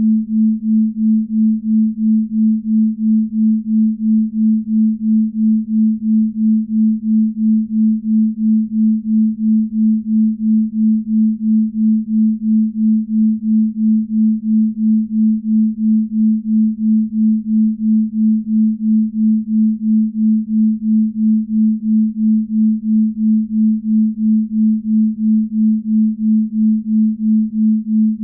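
Binaural beat for deep sleep: a steady pure tone near 220 Hz that swells and fades evenly about twice a second.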